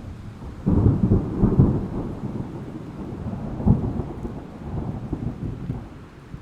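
Thunder rumbling over steady rain: a deep roll breaks in sharply under a second in, crackles and swells for a few seconds with another peak near the middle, then dies away near the end.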